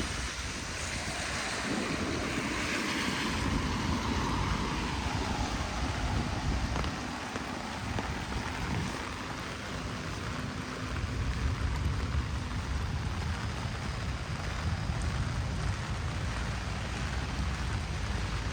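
Heavy rain falling as a steady hiss, with low rumble from wind on the microphone. A louder swish swells and fades in the first few seconds.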